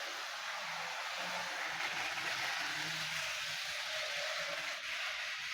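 Model train locomotive running along the track: a steady whir of its electric motor and gears with wheel noise on the rails, freshly lubricated and cleaned.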